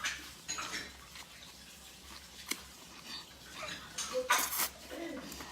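Soft eating sounds: chewing, with scattered small clicks and taps of utensils and dishes.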